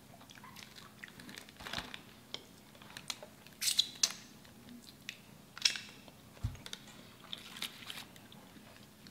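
A person chewing and biting crunchy food close to the microphone, with irregular crisp crunches and one dull low thump past the middle.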